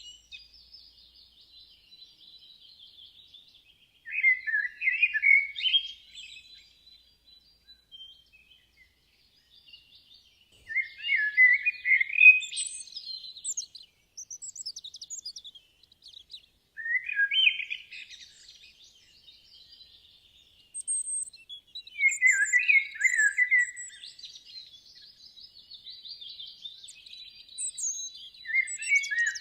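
A songbird singing short, varied phrases of about two seconds each, roughly every six seconds, with fainter chirping from other birds in the pauses.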